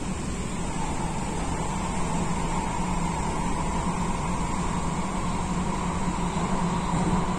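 MTR K-Train electric multiple unit running at speed, heard from inside the carriage: a steady rumble of wheels on rail with a constant low hum and a fainter higher tone from the drive.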